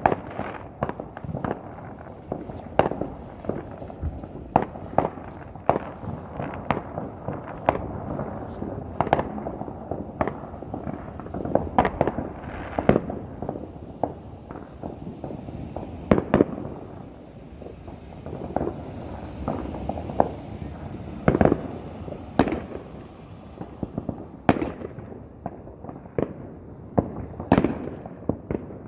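Fireworks going off: a steady barrage of irregular bangs and pops, sometimes several a second, with crackling noise between them.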